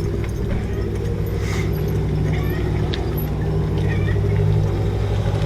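Car engine and road noise heard while driving slowly: a steady low drone with a constant hum.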